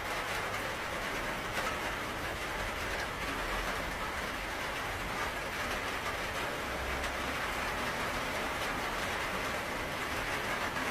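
Steady rain falling: an even hiss with scattered sharper drop ticks and a low rumble underneath.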